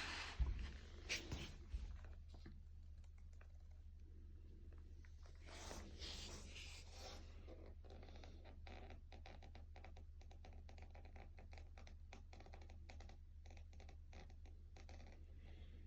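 Faint, irregular crackling of a wood fire burning in a water-jacketed wood stove, with a few dull thumps in the first two seconds and a short rush of noise near the middle.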